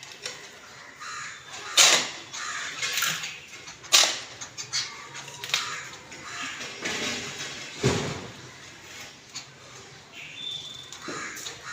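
A group of birds calling with harsh, crow-like caws at irregular intervals; the loudest calls come about two, four and eight seconds in.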